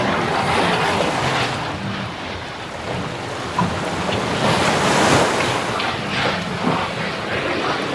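Sea water rushing and washing along the hull of a sailboat under way, with wind buffeting the microphone; the wash surges louder about five seconds in.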